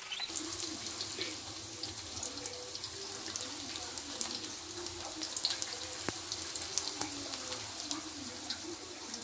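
Food frying in hot oil in an aluminium wok: a steady sizzle with many small pops and crackles.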